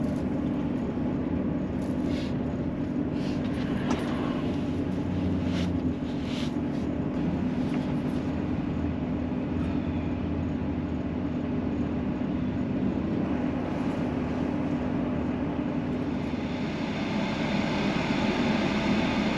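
A vehicle engine running steadily with a low, even hum. A hiss builds over the last few seconds.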